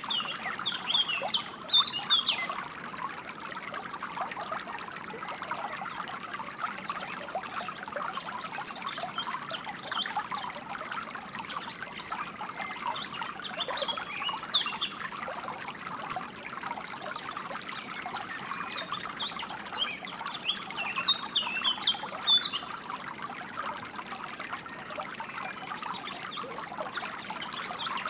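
Small stream of water trickling and splashing steadily, with short bursts of songbird chirping several times over it.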